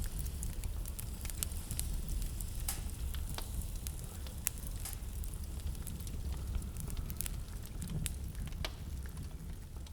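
Wood fire burning in a fireplace: irregular sharp crackles and pops over a steady low rumble and hiss.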